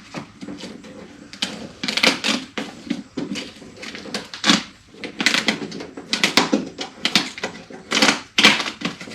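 Irregular run of sharp plastic clicks and clacks as door trim parts and push-in fasteners are handled.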